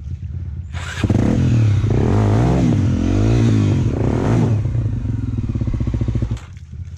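Trail motorcycle engine ticking over, then revved hard about a second in. Its pitch rises and falls several times before it holds steady and drops back to a low idle near the end.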